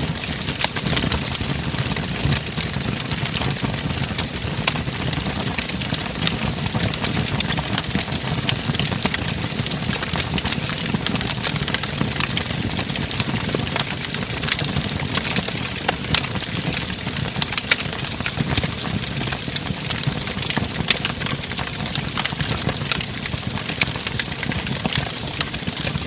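Wood fire crackling in a fireplace: a steady low rumble of burning under many sharp pops and snaps.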